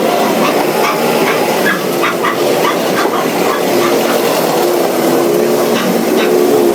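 Yamaha Mio Sporty scooter's single-cylinder four-stroke engine running after its spark plug was replaced, with its pitch sagging slightly and then picking up again near the end. Short sharp ticks sound over it.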